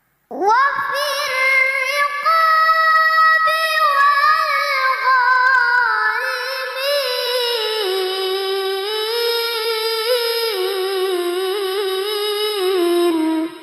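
A child reciting the Quran in the melodic tilawah style: one long, ornamented phrase, starting about half a second in, with a wavering pitch that steps gradually lower and cuts off just before the end.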